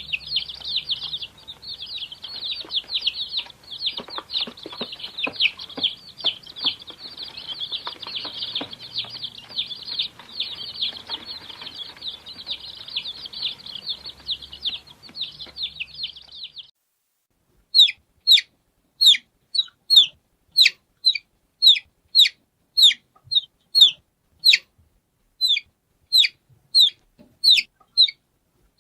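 Baby chicks peeping: first many chicks cheeping over one another, with light taps and a faint low hum underneath. About two-thirds through, this cuts to a lone chick's loud peeps, evenly spaced at about one and a half a second, each dropping in pitch.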